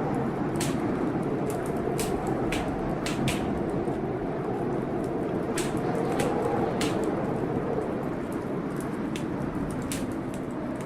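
Wood fire crackling in a fireplace, with sharp irregular pops, over the steady noise of a storm.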